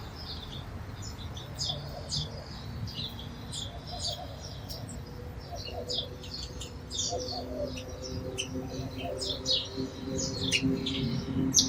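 Sparrows chirping, many short, rapid chirps overlapping throughout, with a low steady hum underneath from about halfway through.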